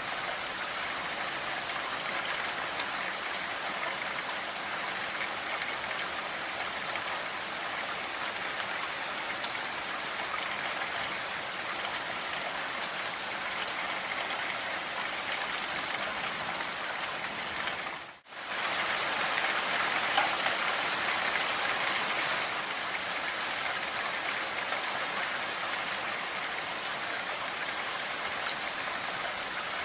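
Steady rain falling, an even hiss of many drops. About eighteen seconds in it fades out for a moment and comes straight back slightly louder, like a join between two recordings.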